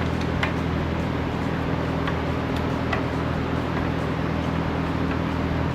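A steady, even machine hum in the background, with a few faint light clicks scattered through it.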